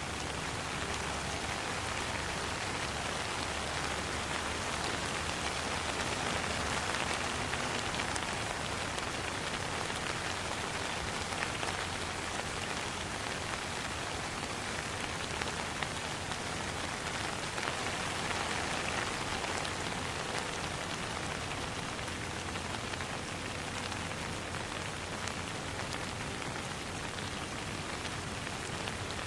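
Steady rain falling on a pond, an even hiss with many small drop ticks.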